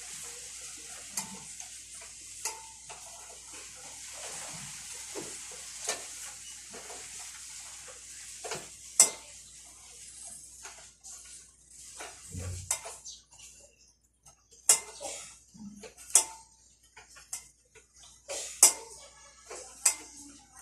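Metal clinks and clanks of a motorcycle chain and hand tools being worked on. A steady hiss fills the first half, then sharp, separate knocks follow at irregular intervals.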